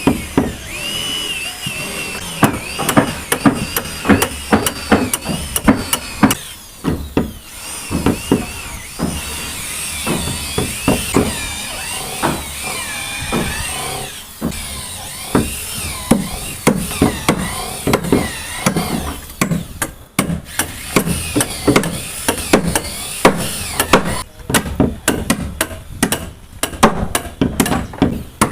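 Hammer blows on wooden floor boards, many irregular strikes a few a second, over a high whine that wavers up and down in pitch.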